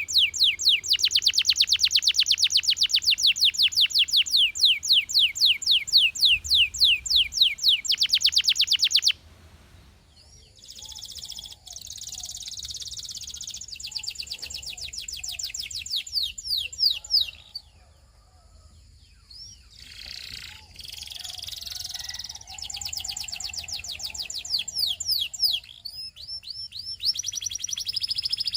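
Canary singing: a loud, fast trill of rapidly repeated downward-sweeping notes for about nine seconds, which breaks off into softer, varied twittering phrases. After a short lull the song resumes near the end with more quick trills.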